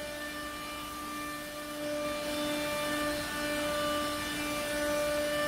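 Disc tool-change CNC router's axis motors whining steadily as the gantry returns to its home point, the whine swelling a little in the middle.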